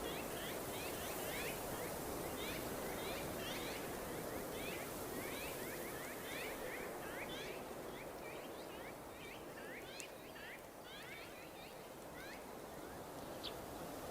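Birds chirping: many short, quick chirps several times a second over a steady rushing noise, thinning out in the last few seconds.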